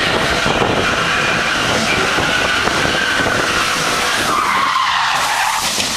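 Car tyres skidding with a long, loud squeal that slides down in pitch about four and a half seconds in.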